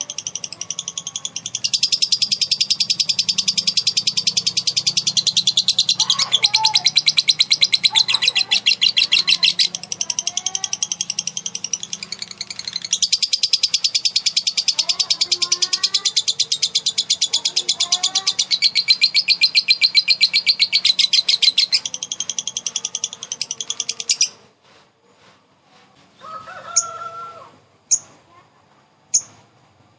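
Female lovebird ngekek: a long, very fast chattering trill of high notes, many a second, that runs for about twenty-four seconds and then stops, followed by a few single sharp chirps near the end. Fainter, lower gliding bird calls sound underneath in the middle.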